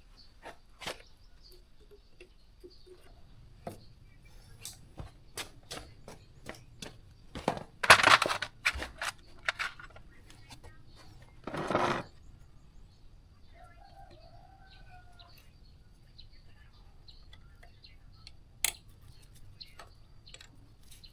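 Scattered clicks and knocks of hard objects being handled, with a loud clatter of several knocks about eight seconds in and a short hiss near twelve seconds.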